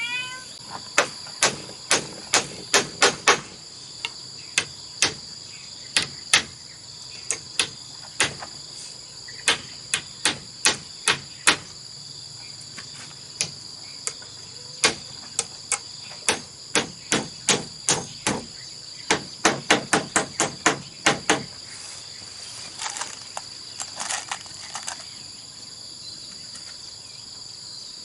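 Sharp tool strikes on bamboo, coming in quick runs of several blows with short pauses and a few softer knocks near the end. Insects drone steadily in the background.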